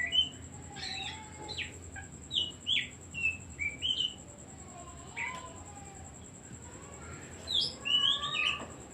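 Oriental magpie-robin singing: runs of varied, quickly slurred whistles and chattering notes, busy for the first few seconds, sparse in the middle, then another burst near the end.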